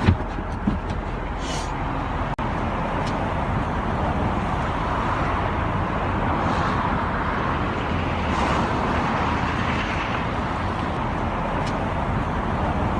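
Steady motor-vehicle noise with a few faint clicks scattered through it.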